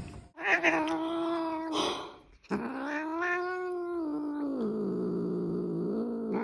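Cat yowling: two long drawn-out yowls, the second longer and dropping lower in pitch toward its end before cutting off suddenly.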